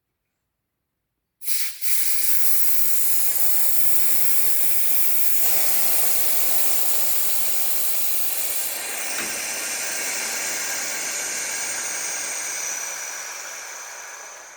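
Pneumatic air jack releasing its air with a loud, steady hiss as it lowers the car. The hiss starts suddenly about a second and a half in and tapers off near the end.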